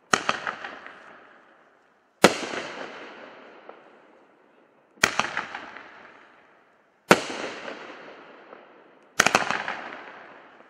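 Winda P5494 'Mother of All Bombs' 9-shot aerial fireworks cake firing: five shell bursts about two seconds apart, each a sharp bang that trails off over a second or two.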